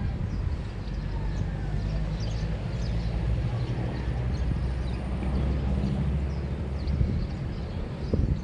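Neighborhood morning ambience: a steady low rumble of vehicle traffic that swells in the middle and eases off, with faint bird chirps over it.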